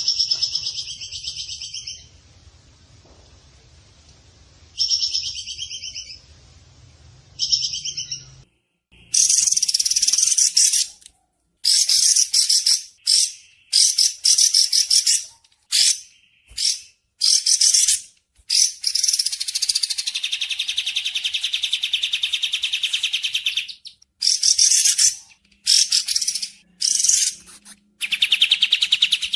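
Recorded bird calls: short high phrases over a low hum, then after a sudden cut about eight seconds in, dense, rapid, buzzy calls in short bursts with one long trill.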